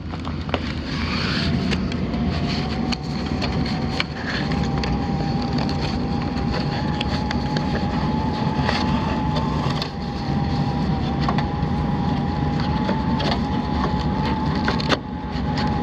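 HVAC air handler running steadily: a rushing, humming blower with a thin motor whine that edges up in pitch over the first few seconds and then holds. Scattered light knocks and clicks sound through it.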